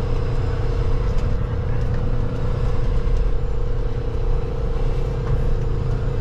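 Semi truck's diesel engine running, heard from inside the cab: a steady low rumble with a constant hum over it.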